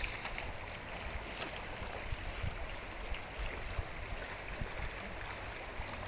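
River water rushing steadily, with a few brief faint clicks.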